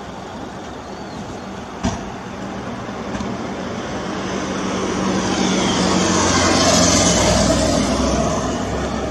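A train crossing a long elevated railway bridge: its rumble and rail noise swell from about three seconds in to a peak near seven seconds, then ease off. One sharp knock about two seconds in.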